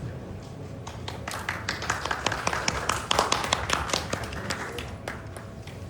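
Concert audience clapping in scattered, irregular handclaps over a murmur of the crowd. The clapping builds to a peak about halfway through and thins out near the end.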